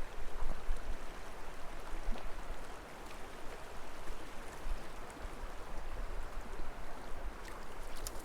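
Small mountain creek babbling steadily over rocks and boulders, with a low rumble underneath.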